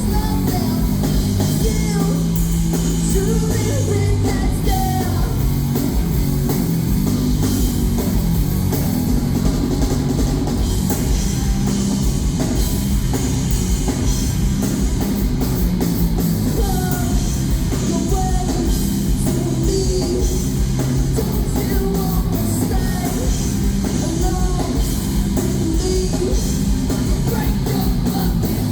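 A loud rock band playing live: heavy distorted guitars, bass and a pounding drum kit, with a singing voice over them.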